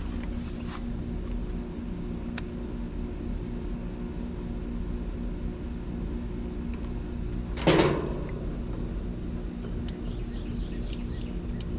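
Steady low mechanical hum of several fixed tones. A sharp click comes early, and a single loud knock about three-quarters of the way through.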